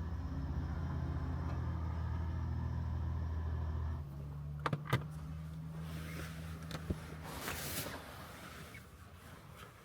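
Honda N-VAN's small three-cylinder engine idling, heard from inside the cabin. Its steady hum changes about four seconds in and dies away near the end, with a few sharp clicks in between.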